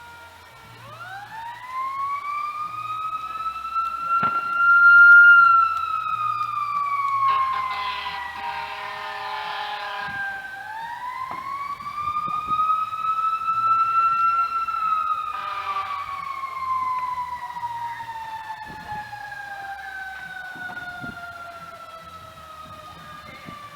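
Emergency vehicle siren wailing: it rises over a few seconds and falls slowly, twice, with a loud horn blast between the two wails and a short one near the end of the second rise.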